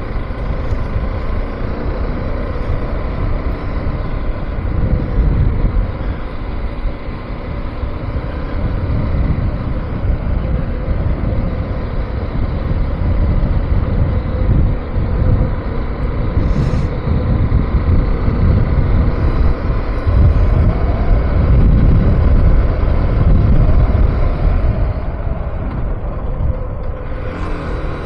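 Motorcycle ride on a KTM 390 Adventure: heavy wind buffeting on the rider's microphone over the single-cylinder engine running, swelling and easing with speed.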